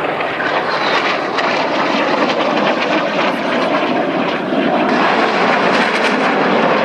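Loud jet noise from F-5E Tiger II fighters' twin General Electric J85 turbojets flying a low display pass. It is a dense, steady rush that grows a little louder about five seconds in.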